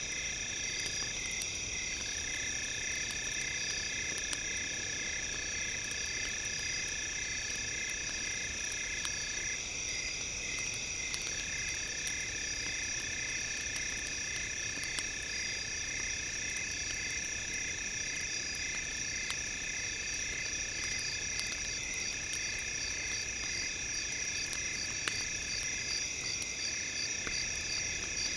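Several steady high electronic tones layered together, some of them pulsing regularly. Under them is the faint crackle of a campfire.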